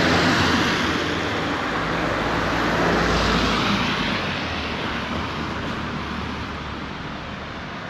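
Road traffic passing on a wet street: tyre hiss on the rain-soaked asphalt, loudest at the start and slowly fading away, with a low engine rumble about three seconds in.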